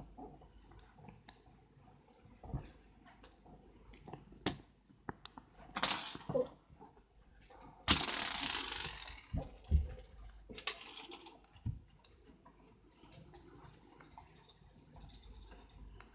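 A kitten at play: scattered light taps, clicks and rustles, with a louder rustling burst lasting about a second and a half around eight seconds in.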